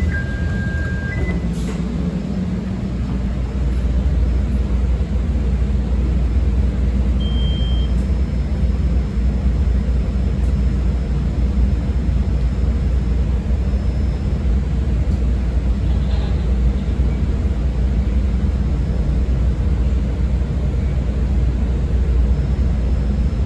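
Inside a CTA 5000-series 'L' car: the door-closing chime finishes with two tones and the doors shut with a click, then the train pulls out and runs with a steady low rumble of wheels on rail. The rumble grows louder a few seconds in as the train picks up speed.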